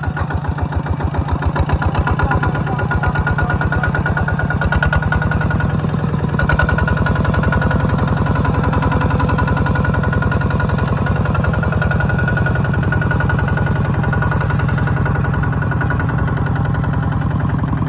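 Engine of a rice-harvesting farm machine running steadily with a fast, even pulse and a thin steady whine above it.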